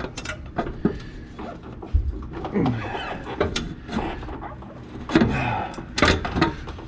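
A socket wrench on a seized nut, clicking and knocking as it is forced, with a dull thump about two seconds in. A man grunts with strain twice as he works the nut loose.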